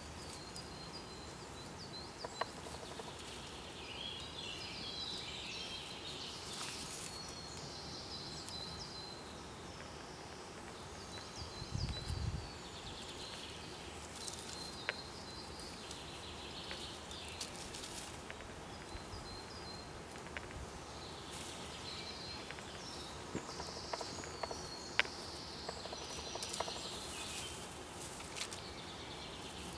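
Songbirds singing in short repeated phrases over a steady outdoor background, with scattered small clicks and rustles and a brief low thump about twelve seconds in.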